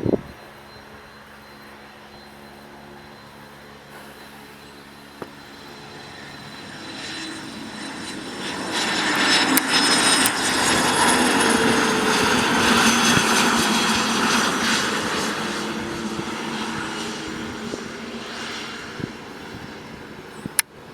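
Cessna Citation CJ3 twin-turbofan business jet coming in to land: a faint hum swells into a loud rush with a high engine whine, peaks for several seconds, then fades as the jet passes. A sharp click near the end.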